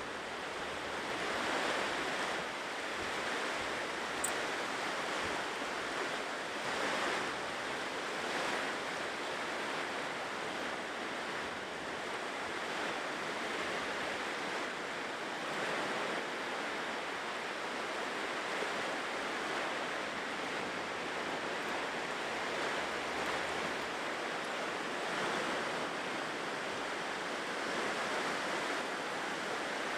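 Ocean waves washing onto a shore, a steady surf hiss that swells and eases every few seconds, with some wind.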